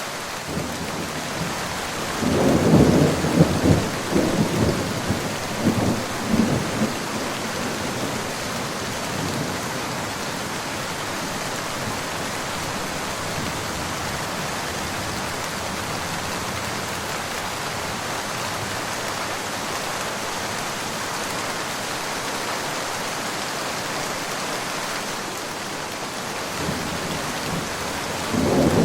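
Steady heavy rain falling, with a clap of thunder rumbling for several seconds about two seconds in and another peal starting near the end.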